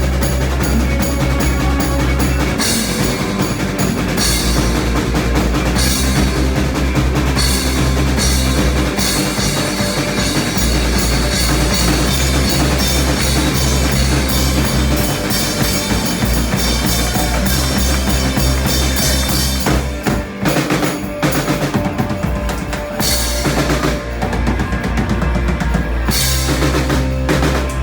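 A live rock band playing loud, with a full drum kit and bass driving a steady beat; about two-thirds of the way through the playing breaks into a run of separate accented hits before the full beat resumes.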